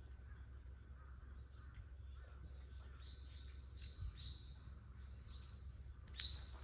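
Faint bird chirps, short and scattered, over a low steady rumble.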